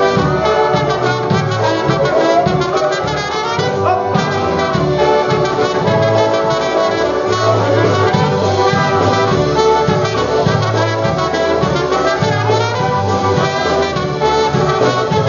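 Live polka band playing an instrumental break between sung verses, with brass carrying the tune over a steady, pulsing oom-pah bass.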